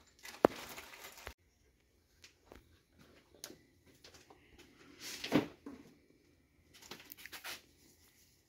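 Scattered light clicks and handling noises from tools and engine parts during engine block assembly, with a sharp click near the start. There is a brief low sound about five seconds in.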